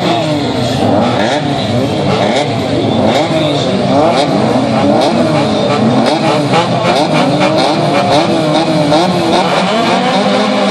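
Several standard-class autocross cars over 1600 cc revving their engines together on the start grid, many overlapping revs rising and falling while they wait for the start.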